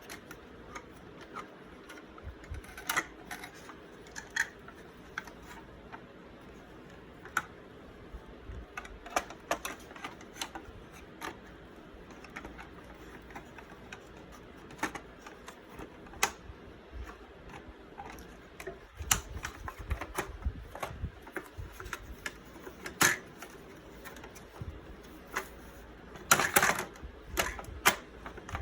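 Irregular clicks and taps of the hard plastic parts of a refrigerator ice caddy being handled and fitted back together, with a quick run of clicks near the end.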